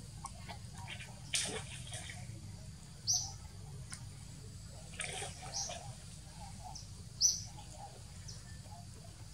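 Bird chirping: short, high chirps every second or two, with a couple of brief rustles and a steady low hum underneath.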